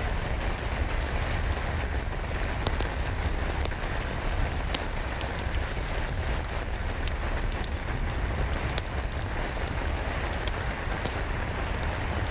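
Steady rain over a deep low rumble, with scattered sharp crackles from a wood fire in a fireplace.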